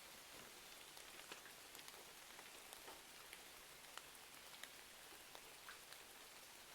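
Faint, steady rain hiss with scattered small ticks and crackles, as of a wood fire burning alongside the rain.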